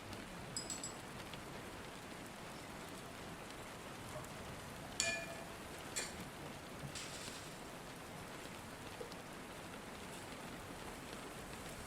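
Steady rain falling. A few short light clinks sound over it, the loudest about five seconds in with a brief ring, and another a second later.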